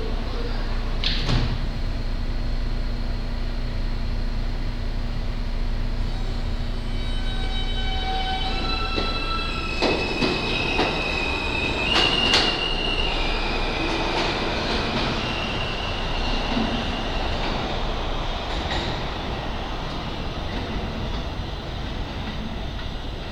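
R160A subway train pulling out of the station. Its traction motors whine in a series of tones that climb in steps as it picks up speed. Wheels rumble and clack over the rails, with a few sharper knocks partway through.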